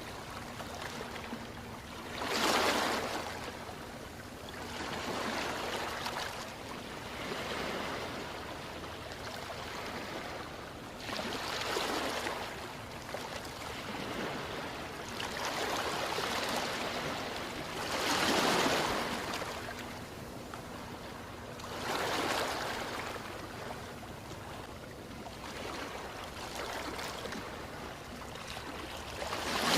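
Ocean waves breaking and washing ashore in a continuous hiss that swells and ebbs every few seconds, with several louder surges; the strongest comes near the end.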